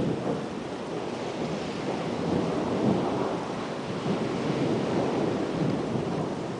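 Thunder rumbling in a thunderstorm over steady wind noise, swelling about two to three seconds in.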